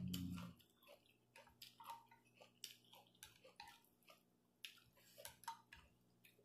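Faint eating sounds: chewing and lip smacks with scattered small clicks.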